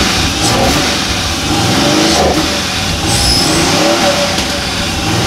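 V12 LS engine blipped from idle several times, its revs sweeping up and falling back with each quick throttle crack. The blips are a check of transient fuelling, which is still a little lean on a quick throttle crack.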